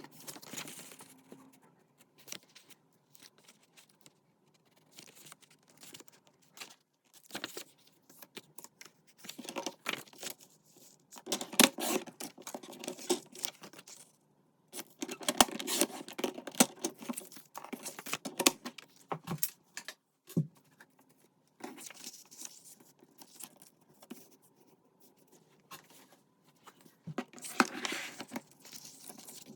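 Paper being torn and rustled by hand, with small clicks and taps on the desk, in several bursts separated by pauses.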